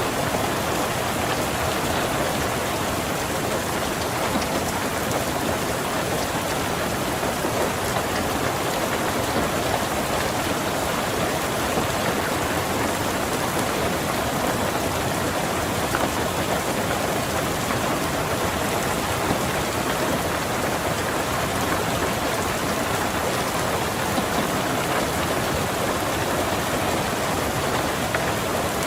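Steady rain falling on a car's roof and windows, an even, unbroken hiss with no thunder.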